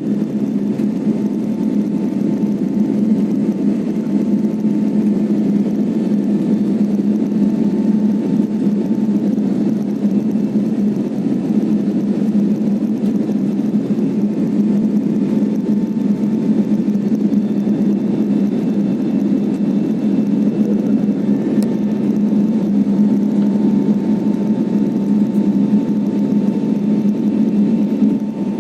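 Airliner cabin noise during takeoff: a loud, steady low drone of engines and airflow, with a faint thin tone above it.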